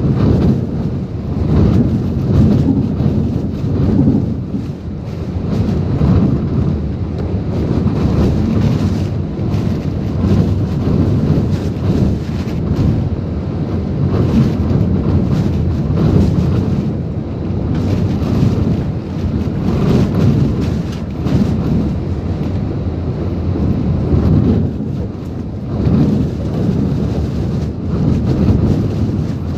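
Typhoon-force wind gusting against the microphone: a deep, continuous rumble that swells and eases every few seconds, with rain.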